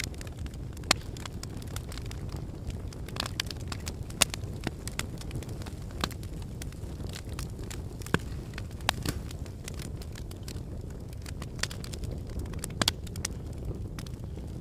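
Log fire burning in a fireplace: a steady low rumble of flame with irregular crackles and sharp pops from the wood, a few pops louder than the rest.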